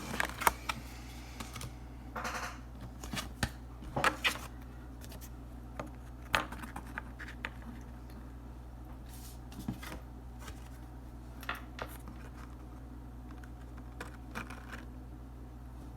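Oracle cards being handled and laid out: scattered light taps and clicks with a few short rustles of card sliding on card, over a steady low hum.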